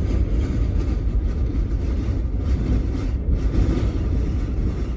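Strong wind gusts buffeting and rocking a camper van, heard from inside as a loud, uneven low rumble.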